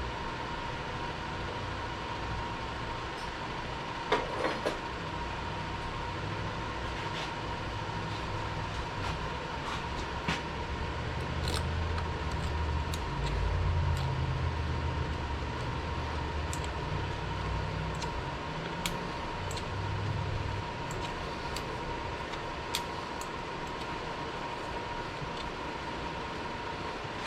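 Steady machine-shop hum with a constant high tone and a low rumble that swells for a while in the middle. Scattered light metal clicks and taps sound as the T-nuts are worked into the lathe's cross-slide slot.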